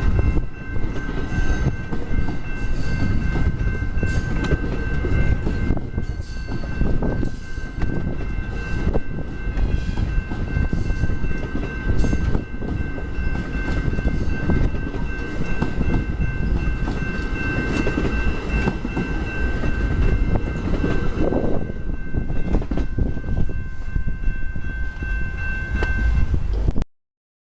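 AMT commuter train with multilevel passenger cars rolling past: a heavy low rumble and irregular wheel-on-rail clatter, with a steady high-pitched whine held over it. The sound cuts off suddenly near the end.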